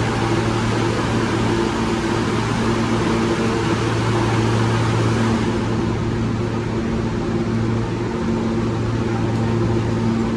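New York City subway L train at the station, a steady loud drone of motors and equipment with a constant low hum. The hiss in the upper range thins out about halfway through.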